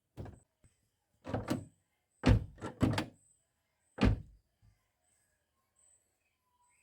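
Car rear door thudding as it is pushed and shut against the body, about six short thuds over four seconds, the loudest a little over two seconds in. The door is being worked back into alignment on its loosened hinge nuts after being knocked out of line.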